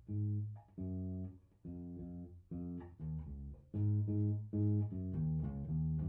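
Electric bass guitar played through a Fender Rumble 100 V3 bass combo amp, with the strings tuned down a half step. It plays a run of about a dozen short, separate notes, each plucked and cut off before the next.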